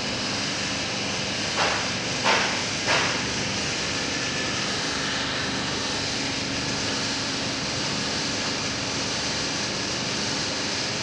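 A steady mechanical running noise with a faint low hum, broken by three short hissing bursts between about one and a half and three seconds in.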